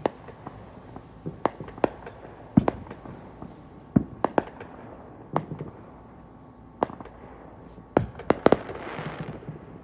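Fireworks going off: about a dozen sharp bangs and pops at irregular intervals, with a crackling hiss near the end.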